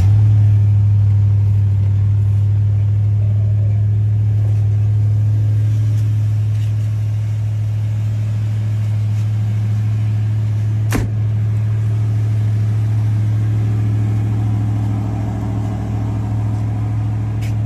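1946 Ford coupe custom hot rod's engine running steadily at an even speed, with one sharp click partway through.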